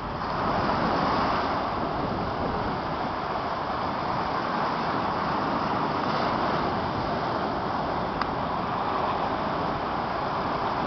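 Steady rush of sea surf on the shore, swelling and easing slightly, with a single small click about eight seconds in.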